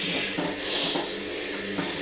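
A band playing in rehearsal: held low notes with drum hits and a hiss of cymbals on top.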